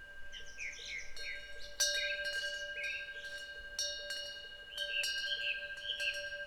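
Korean temple wind bell (pungyeong) struck several times by its clapper, each strike leaving a long, clear ringing tone that carries over into the next. Songbirds chirp and warble over the ringing.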